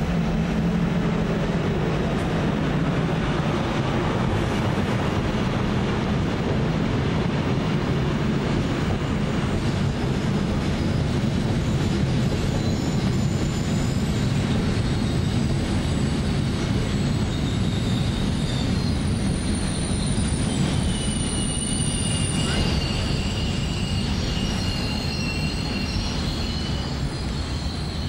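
Rolling-highway freight train, lorries carried on low-floor wagons, passing close by with a steady rumble of wheels on rail. From about halfway through, a high squeal from the wagon wheels comes in over the rumble.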